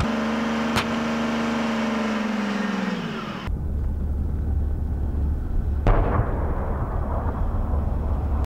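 Leopard 1 tank on the range: a whine that slowly falls in pitch over the first three seconds, then a steady low rumble with one sharp bang about six seconds in.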